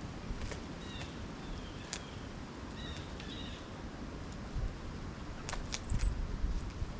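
Outdoor ambience with a low rumble and rustle, over which a few short, faint bird calls come about a second in and again about three seconds in, with a few sharp ticks near the end.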